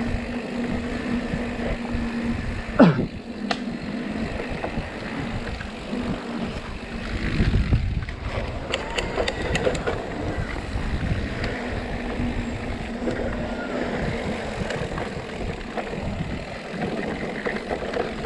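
Mountain bike running downhill over a dirt trail: steady rumble and hiss of tyres and wind, with rattling. About three seconds in there is a short, loud squeal that falls steeply in pitch, and around nine seconds there is a quick run of sharp clicks.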